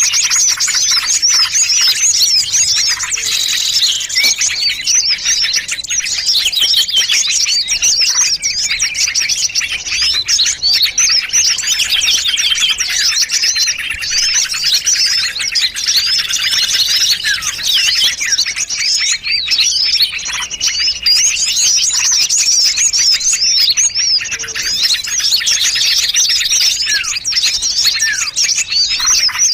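A dense chorus of many small songbirds chirping and twittering over one another without a break, high-pitched and busy: a mixed lure-call recording for small birds.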